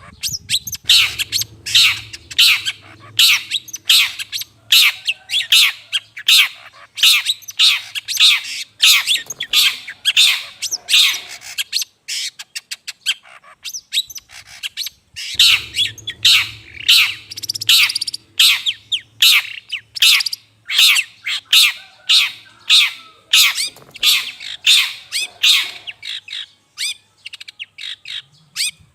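Long-tailed shrike (cendet) giving harsh, scratchy calls in quick succession, a few a second, with a pause of about three seconds near the middle. It is a lure call of the kind used to draw wild shrikes in.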